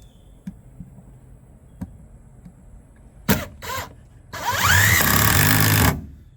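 Power drill driving a screw into the wood to fasten a bird house piece in place. It gives two short blips of the trigger, then runs for about a second and a half, its motor whine rising as it speeds up.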